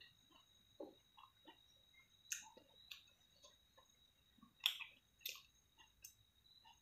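Quiet close-up chewing of a mouthful of rice, with scattered sharp wet clicks and smacks, the loudest about two and a half seconds and about five seconds in. A faint steady high-pitched tone runs underneath.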